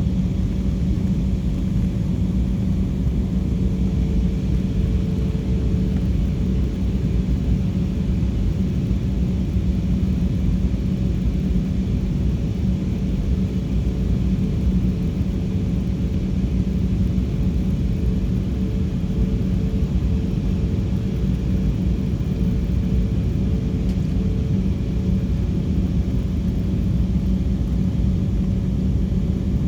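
Airliner cabin noise: the steady rumble of the engines and airflow with a constant low hum, and a fainter higher tone that comes in a few seconds in and fades out near the end.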